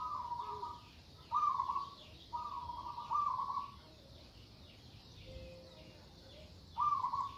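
Zebra dove (perkutut) cooing in short rolling phrases: four in quick succession, a pause of about three seconds, then one more near the end. Faint high chirping runs underneath.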